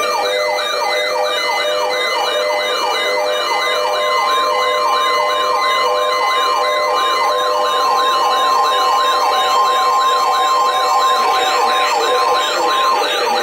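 Electronic siren in a fast yelp, its pitch sweeping up and down about three times a second, layered with steady tones. A steady higher tone joins about four seconds in and cuts off shortly before the end.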